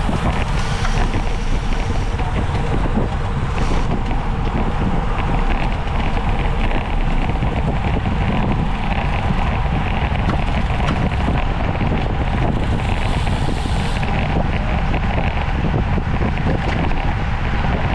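Wind rushing over the microphone: a loud, steady rush with no break, strongest in the low end.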